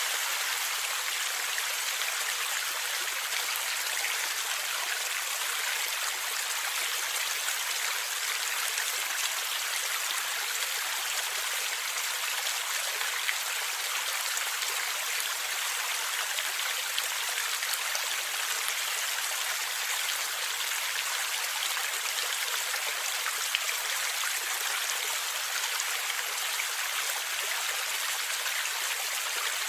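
Forest river water flowing and gurgling: a steady, even rush with little low rumble.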